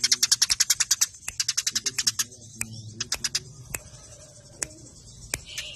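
Eurasian tree sparrows chattering in fast, tight bursts of sharp chirps, the aggressive fighting call. The chirps run densely in the first second and again mid-way, then thin to scattered single chirps.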